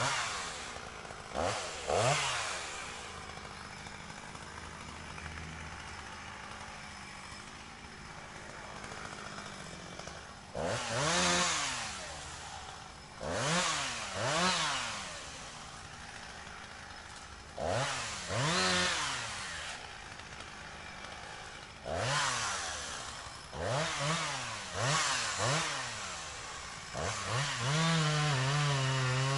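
Chainsaw engine idling, blipped up to high revs and back down about a dozen times, each rev lasting about a second with a longer idle stretch in between. Near the end it is held at steady high revs.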